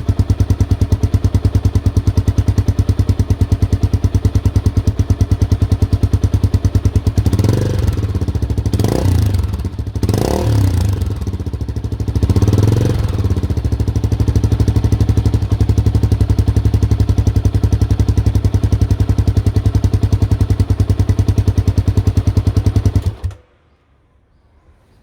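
Honda XR250 Motard's single-cylinder four-stroke engine idling through a Delta Barrel 4 aftermarket muffler that is being made quieter. A little past a quarter of the way in it is revved four times in quick succession, then settles back to idle, and near the end the engine is switched off and cuts out suddenly.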